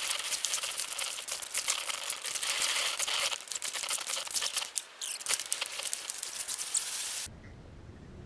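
Slushy lake ice crackling and crunching: a dense run of small cracks and crinkles that cuts off suddenly about seven seconds in.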